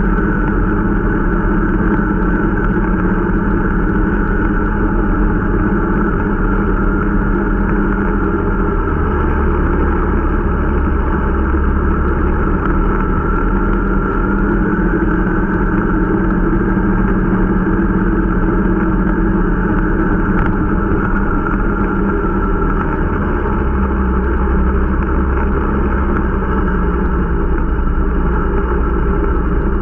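Irbis Dingo T125 snowmobile's 125 cc single-cylinder four-stroke engine running steadily while being run in, its pitch shifting slightly now and then.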